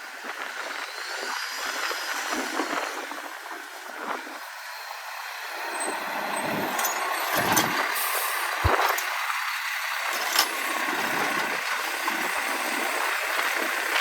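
Mack LEU garbage truck with a Bridgeport packer body at work: a steady hiss with air-brake sounds, louder from about halfway through, and a sharp knock about nine seconds in.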